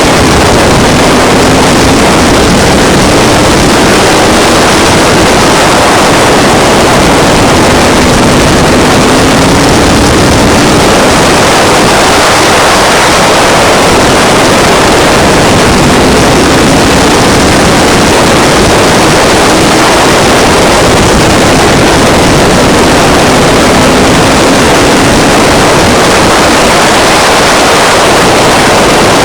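Race trucks' engines running at speed around a short oval, heard as a loud, dense wash of engine and track noise; an engine note swells and fades roughly every eight seconds as trucks come past.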